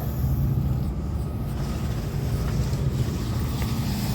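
An engine idling, a steady low drone.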